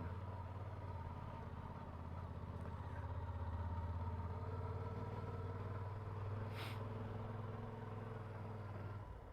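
Motorcycle engine running steadily with a low hum, with one short click about two-thirds of the way through; it drops quieter near the end.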